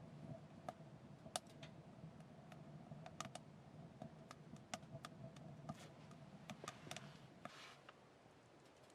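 Faint crackling of a burning wood fire: irregular sharp snaps and pops over a low steady hum.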